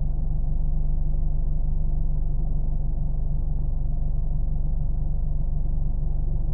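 Steady low rumble of a car engine and cabin drone, even and unbroken, with most of its weight in the deep bass.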